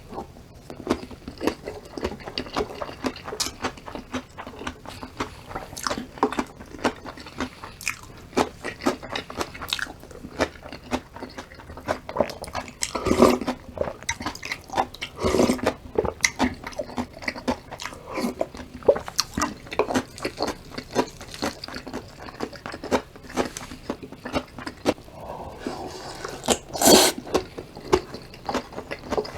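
Close-miked eating: crunchy chewing and mouth clicks of bibimbap with raw radish salad, going on without a break. A few louder knocks stand out, the loudest near the end.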